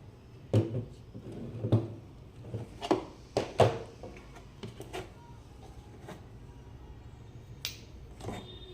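Irregular sharp clicks and knocks of the impact wrench kit being handled and unpacked: a quick cluster in the first four seconds, then two more near the end.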